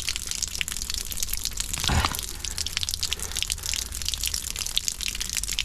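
Water splashing and trickling in a blocked drain gully as tree roots are pulled out of the pipe, with many small crackling clicks and one short, louder burst about two seconds in.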